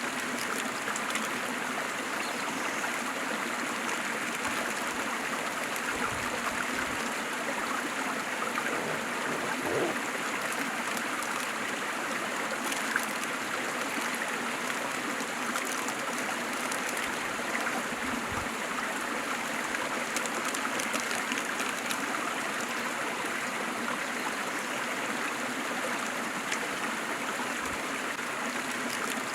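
Waterfall: a steady, even rush of falling and splashing water that runs on without change.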